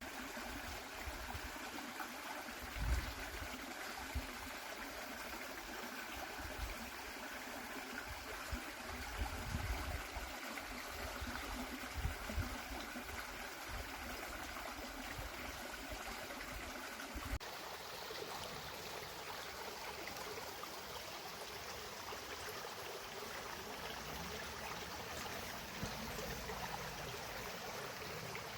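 Stream water flowing steadily, a continuous rushing hiss. Low thumps on the microphone come and go during the first half, and the sound changes abruptly a little past the middle, after which the thumps stop.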